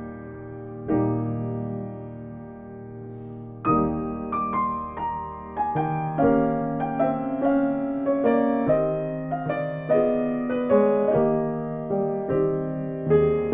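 Solo piano playing slowly and softly: sustained chords that ring and fade in the first few seconds, then a gently moving line of single notes over held bass notes.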